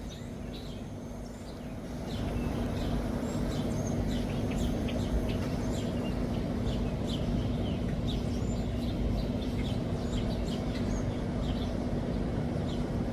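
Small songbirds chirping in many short, high calls over a steady low hum and rumble that grows louder about two seconds in.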